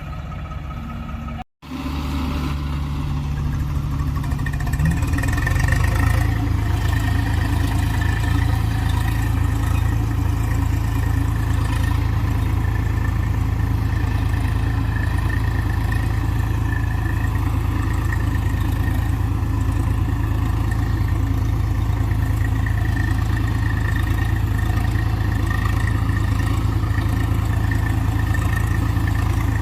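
Diesel farm-machine engine running. Just after an abrupt break about a second and a half in, it grows louder over a few seconds, then holds a steady, heavy drone with a faint high whine over it.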